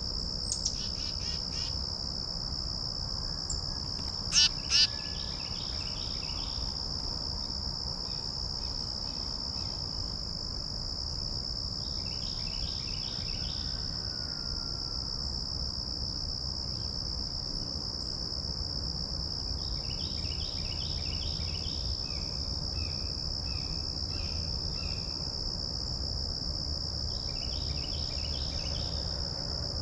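Steady high-pitched insect trill, typical of crickets, with several bursts of rapid repeated animal calls. Two sharp loud clicks come close together about four and a half seconds in.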